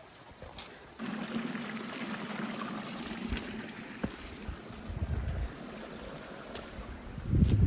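Creek water running over rocks, starting about a second in. Two short low rumbles break in, about five seconds in and near the end, the second the loudest.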